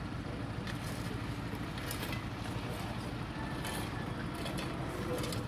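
Steady low rumble of a vehicle driving, with a few faint clicks over it.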